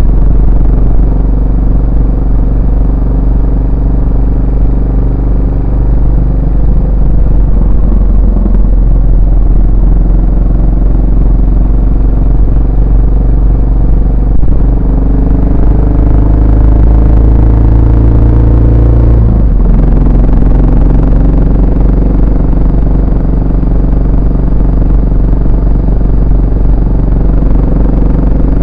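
Yamaha SR400's air-cooled single-cylinder four-stroke engine and exhaust running under way. The pitch climbs for several seconds and then drops sharply about two-thirds of the way in, as at a gear change, before running steadily again.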